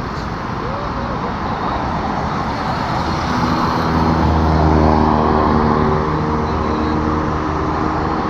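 Road traffic noise, with a vehicle engine's steady hum coming in about three seconds in and loudest near the middle.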